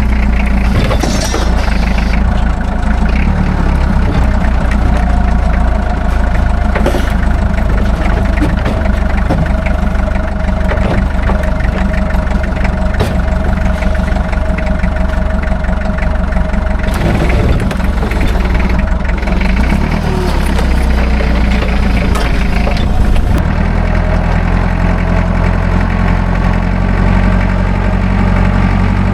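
Truck engine running steadily, its low note shifting about 23 seconds in.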